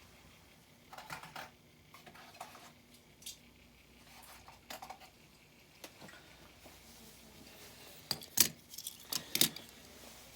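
Diecast toy cars being handled and set down: scattered light clicks and taps, with a louder cluster of sharp clinks near the end.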